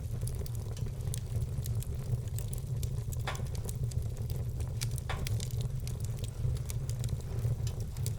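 Wood fire burning in a fireplace: frequent small crackles over a steady low rumble, with two louder pops, one about three seconds in and one about five seconds in.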